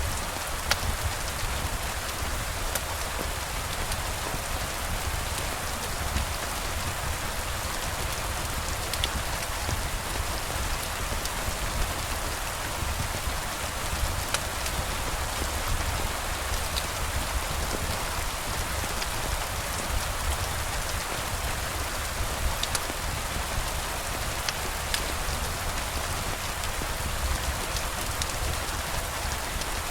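Steady rain falling, with scattered light ticks of single drops over a low rumble.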